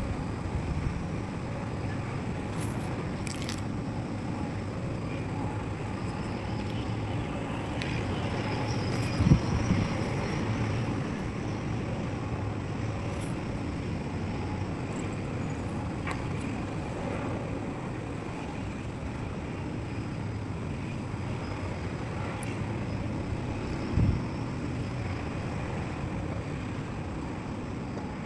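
Excavator's diesel engine running steadily with a low rumble, broken by two heavy thumps, one about nine seconds in and another about fifteen seconds later.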